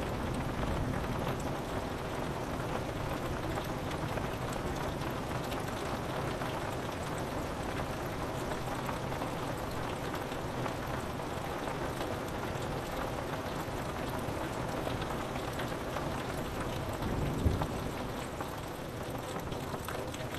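Steady rain falling on window glass. A low rumble of thunder dies away at the start, and a brief low thump of distant thunder comes about seventeen seconds in.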